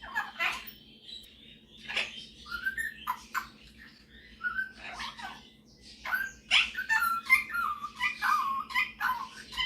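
Superb parrot (Barraband parakeet) chattering with short squawks and whistled chirps, sparse at first and then coming in a quick, busy run from about halfway through.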